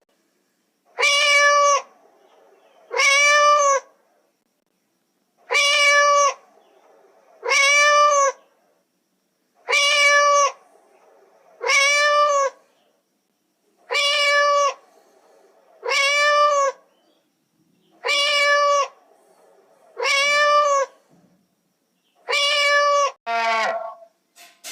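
A cat meowing the same drawn-out meow over and over, about every two seconds, eleven times in all, each call rising then falling in pitch. Near the end a shorter call that falls in pitch follows.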